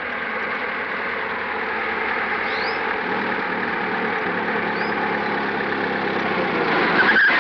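A 1930s open touring car's engine running as it approaches, growing steadily louder, with a short sharp squeal near the end.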